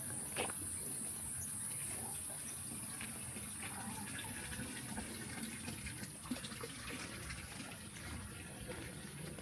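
Water running steadily, with a constant high-pitched insect drone above it and a few light clicks.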